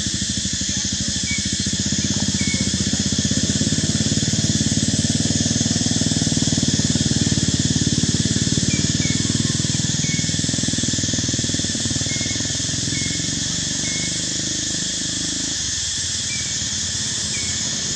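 A motor vehicle's engine running with a low rumble that grows louder and then eases off. Under it is a steady high-pitched hiss, with a few short high chirps.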